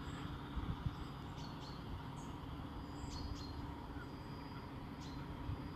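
Faint, scattered chirps of birds over a steady low background hum.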